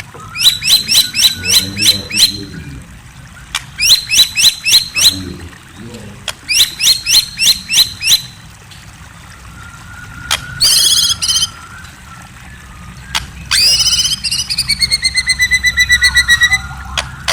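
A murai (Copsychus songbird) singing: three runs of quick, high, down-slurred whistled notes, about four or five a second, then after a pause a short burst and a longer, varied phrase that ends in a falling trill.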